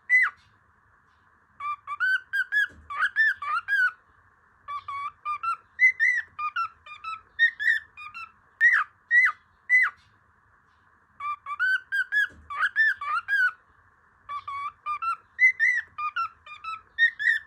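Cockatiel whistling a tune in phrases of short rising and falling notes, with silent pauses of about a second between phrases.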